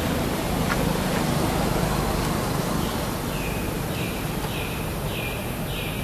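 Steady outdoor background noise. About three seconds in, a bird starts a call of about six short, high notes, each falling in pitch, repeated roughly every 0.6 s.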